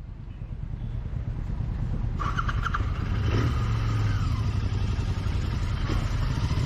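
Royal Enfield Continental GT 650's parallel-twin engine running with the bike under way, with wind rushing past. It grows louder over the first three seconds as the bike picks up speed, then holds steady.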